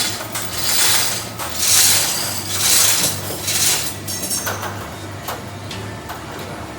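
Rhythmic scraping strokes on the floor, about one a second for the first few seconds, over a steady low hum.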